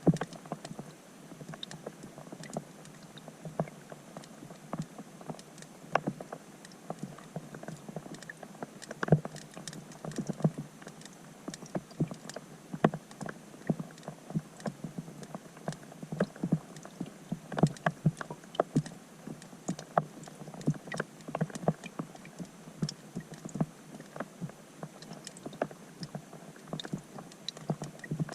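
Rain falling on a pond, heard underwater through a GoPro's waterproof housing: a steady muffled patter with many irregular sharp drop ticks.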